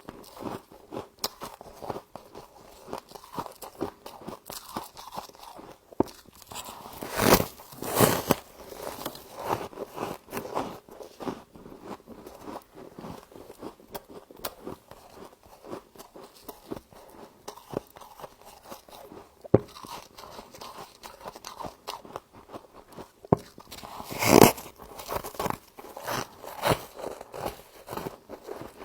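Humidifier frost being bitten and chewed, a continuous crackly crunching with louder bites twice about seven to eight seconds in and once more about twenty-four seconds in.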